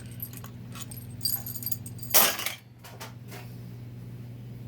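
Small metal transmission parts and bolts clinking and jangling as they are handled during a 4L60-E teardown, with a louder clatter about two seconds in, over a steady low electrical hum.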